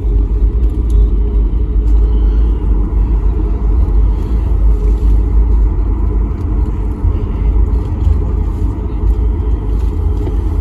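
Steady loud rumble inside an airliner's cabin from its engines and wheels as the jet rolls on the ground after landing.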